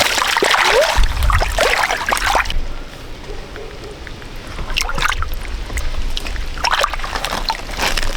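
Water splashing and sloshing in irregular bursts, loudest in the first couple of seconds and again twice later, with a low rumble underneath.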